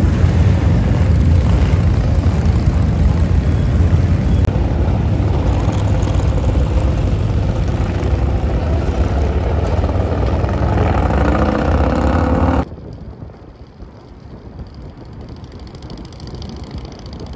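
Motorcycle engines running in street traffic, loud and low, with one engine revving up shortly before the loud part ends. About three-quarters of the way through the sound cuts off suddenly to a much quieter background.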